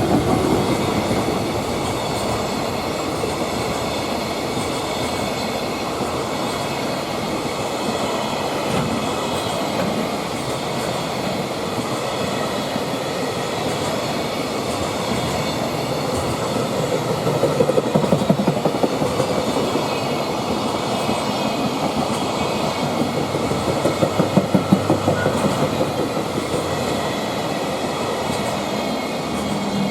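A freight train passing close by, its wagons rumbling along the track with clickety-clack from the wheels over the rail joints. The clacking comes in louder bunches about seventeen seconds in and again near the end.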